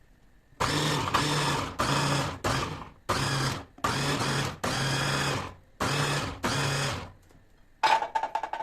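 A small electric motor switched on and off in short pulses: about nine bursts of half a second to a second each, starting under a second in, each with a steady hum.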